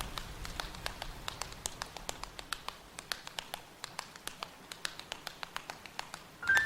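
Rain effect thinning out to scattered water drops, sharp irregular drips falling several times a second. Just at the end a tinkling mallet-percussion melody starts the song.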